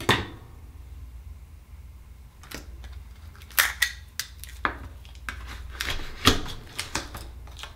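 Sharp clicks and knocks of oyster shells and metal tools being handled as an akoya oyster is opened, about a dozen separate hits with the loudest at the very start, about three and a half seconds in and about six seconds in.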